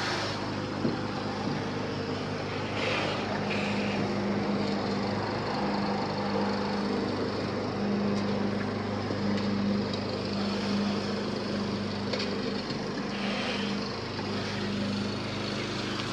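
Garden hose nozzle spraying water onto a car, rinsing soap off, with the steady hum of a motor running underneath.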